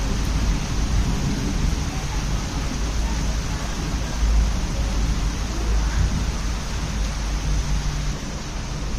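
Rain falling with a steady hiss, and a low rumble underneath.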